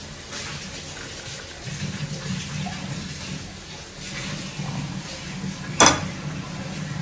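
Hot cumin water being poured from a pan into a glass over a steady low hum, with a sharp clink about six seconds in.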